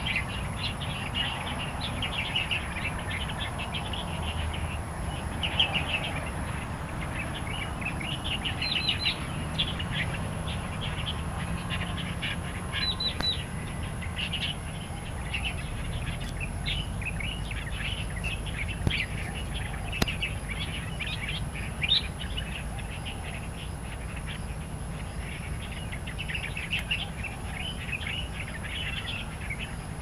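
Songbirds calling in the wild: a continuous run of short, quick chirps and chattering notes.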